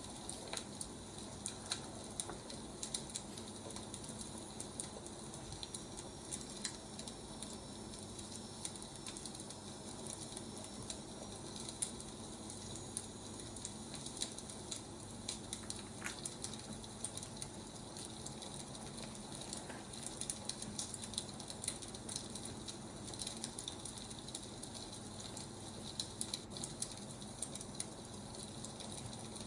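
Wood fire burning: a steady hiss with frequent small crackles and pops.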